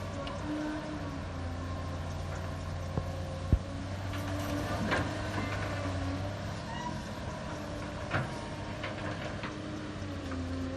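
Heavy diesel engine of earthmoving machinery running, its pitch rising and falling with load, with a few sharp metal clanks, the loudest about three and a half seconds in.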